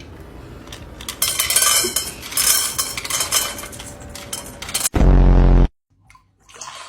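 Hard objects clattering and clinking, like dishes or cutlery, for a few seconds, followed near the end by a short, loud, low buzzy blast.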